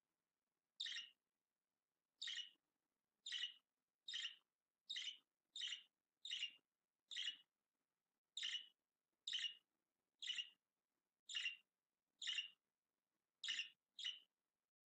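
A bird chirping in a repeated series of short calls, about fifteen in all, roughly one a second, starting about a second in.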